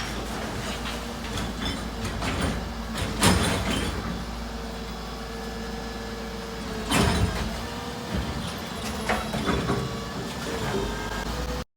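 Garbage truck at work: the engine rumbling steadily under loud metallic clanks and bangs, with a steady whine for a couple of seconds in the middle.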